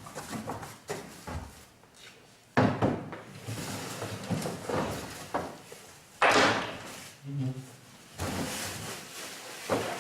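Several sudden knocks and thuds of objects being handled, the loudest about two and a half and six seconds in, with scraping and rustling between them.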